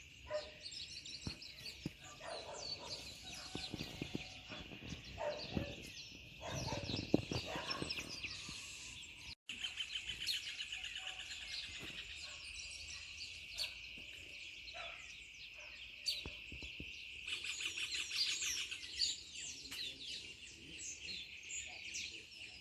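Several wild birds chirping and trilling over a steady high drone of insects in the dry scrubland of northeastern Brazil after rain. The sound cuts out for a split second about nine seconds in.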